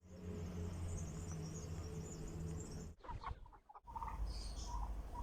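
Chickens clucking in short separate calls over a steady low hum; the sound cuts out briefly about three seconds in.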